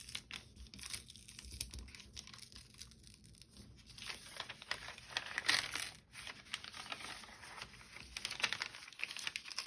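Flat brown paper bag being carefully peeled open along its glued seam: paper crinkling and rustling with small tearing sounds, loudest about five and a half seconds in.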